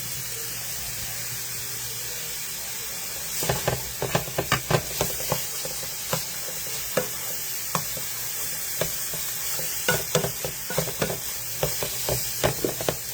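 Italian sausage sizzling steadily in a frying pan as it browns. From about three seconds in, a spatula scrapes and clicks against the pan in irregular clusters as the meat is stirred.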